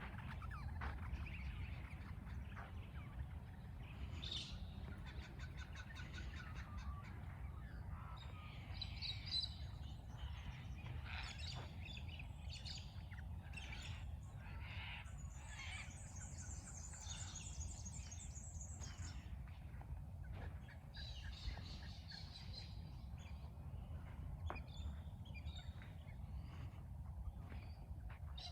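A mixed chorus of birds calling and chirping, with many overlapping calls and a fast high trill in the middle, over a steady low rumble.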